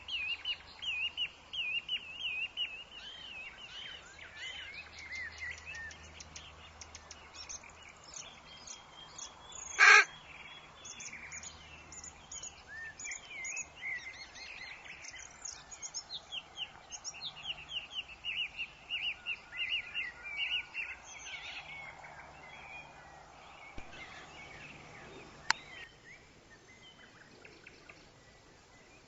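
Woodland songbirds chirping in quick repeated trills over a faint steady hiss, with one brief loud sound about ten seconds in and a single sharp click later; the birdsong thins out towards the end.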